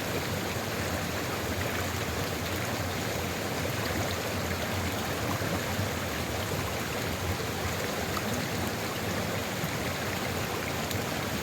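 Sulfur river flowing, a steady, unbroken rush of running water.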